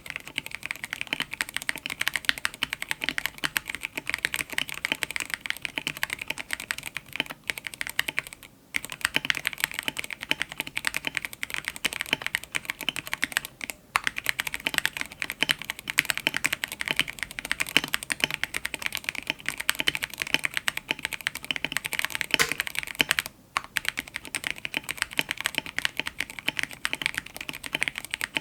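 Fast, continuous typing on a mechanical keyboard with stock, unlubricated Gateron X linear switches: a dense stream of clacky keystrokes, pausing briefly three times.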